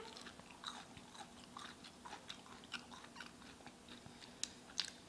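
A person chewing and biting crunchy fried food up close, in small, scattered crisp crunches, with a couple of louder crunches near the end.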